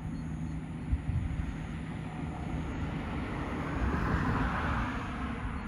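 Crop-spraying helicopter's engine and rotor noise: a steady low rumble, with a hiss that swells about four seconds in and then eases.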